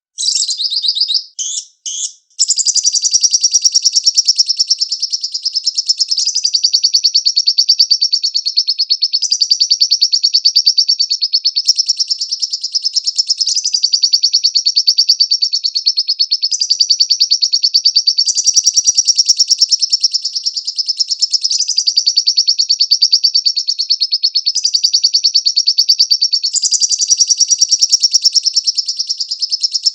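Lovebird singing: after a few short bursts, a long, unbroken, rapid high chattering trill that shifts slightly in pitch every few seconds.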